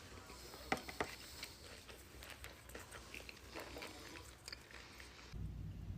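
Close-miked chewing and biting of sushi, with irregular wet mouth clicks and crackles. About five seconds in, a steady low hum comes in.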